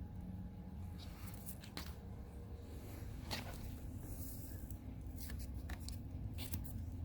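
Faint rustling and a handful of short scratchy taps on a fabric pet tent, over a low steady hum.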